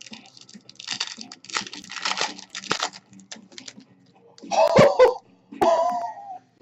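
Crinkling and rustling of trading-card packaging and cards being handled, a quick string of crackles over the first three seconds.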